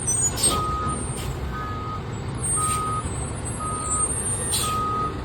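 Fire truck's backup alarm beeping about once a second over its idling diesel engine, with a few short hisses of air.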